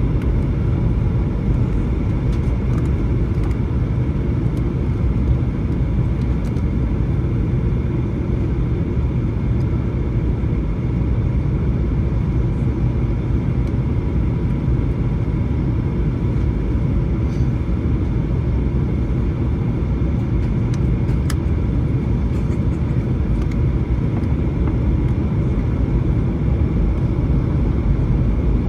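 Steady low cabin roar of a Boeing 737-900 in flight on descent: engine drone and rushing airflow, unchanging throughout, with a faint steady whine above it.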